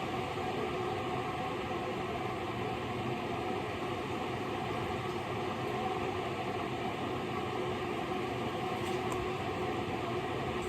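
A steady mechanical whir with an even hiss and a faint hum, unchanging throughout, like a fan or motor running.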